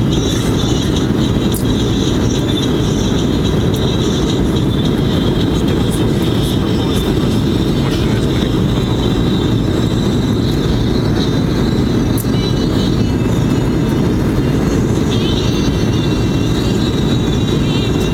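Steady cabin noise inside a Boeing 737-800 on approach: its CFM56 engines and the airflow give a constant, even low rumble.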